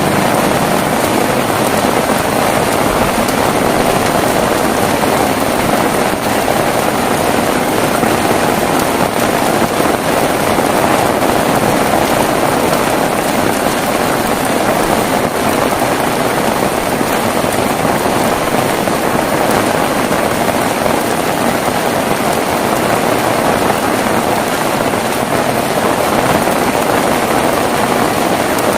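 Heavy rain falling steadily, an even hiss with no breaks or thunder claps.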